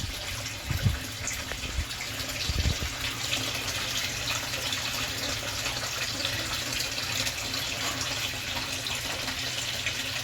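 Water running and splashing steadily into a koi pond, with a couple of brief low thumps in the first three seconds.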